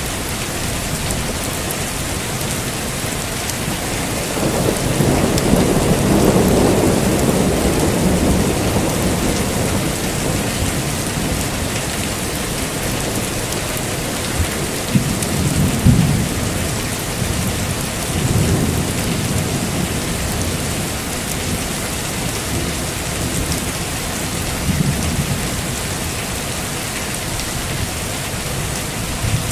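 Steady heavy rain with thunder: a long rolling rumble swells about four seconds in and fades over several seconds, followed by shorter low rumbles and cracks in the middle and near the end.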